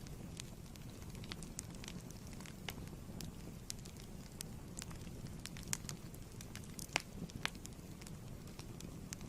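Wood fire crackling steadily in a fireplace, with irregular sharp pops over a low rumble; one pop stands out about seven seconds in.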